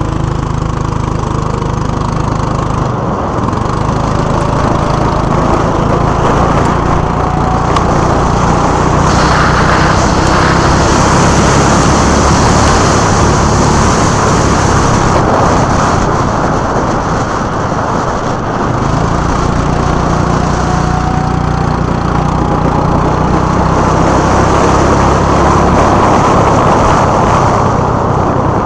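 Small single-cylinder go-kart engine running hard, heard onboard. Its pitch climbs slowly twice as the kart accelerates down straights, and it eases off briefly about three seconds in and again around eighteen seconds, as the driver lifts off for corners.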